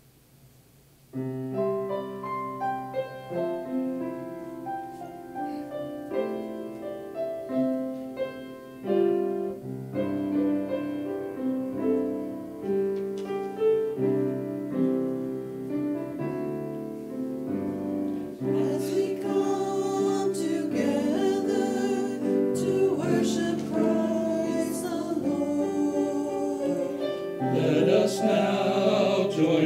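A hymn played on a keyboard instrument begins about a second in; about two-thirds of the way through, the congregation joins in singing.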